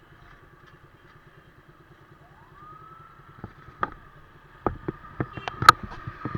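Motorcycle engine idling with a steady low pulse. Just before halfway a tone rises and then holds, and from about halfway sharp knocks and clatter come in, growing louder toward the end.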